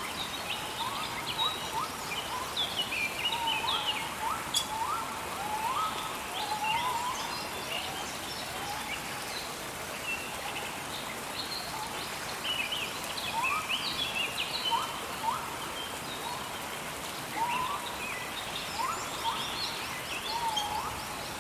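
Steady rainfall in a rainforest with birds calling throughout: repeated short rising whistles and, higher up, quick twittering calls.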